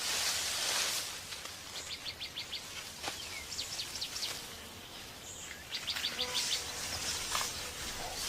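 Forest ambience: a bird gives several quick runs of short high chirps, five or six to a run, over a steady high hiss of insects that is loudest in the first second.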